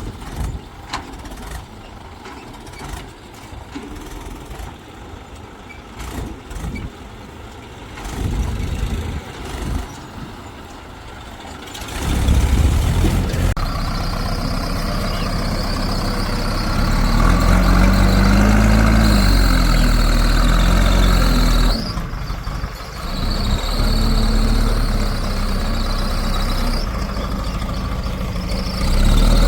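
Heavy diesel machinery. For the first twelve seconds there is lower engine noise with scattered knocks and clanks; then an engine comes in loudly and labours under load, its pitch rising and falling, with a brief easing about twenty-two seconds in.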